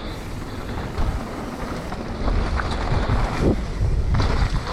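Wind buffeting the microphone over the low rumble of a mountain bike rolling down a muddy trail, with a few knocks from the bike. It gets louder about two seconds in.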